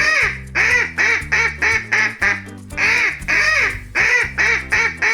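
A duck quacking over and over in quick runs of several calls, over background music with steady low notes.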